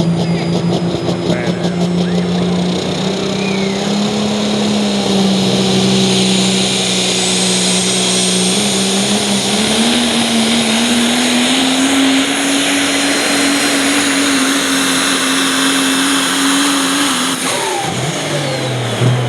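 Super stock diesel pickup's engine running flat out under load on a pull, its pitch climbing slowly over the run with a high whine above it. Near the end the engine is let off and winds down.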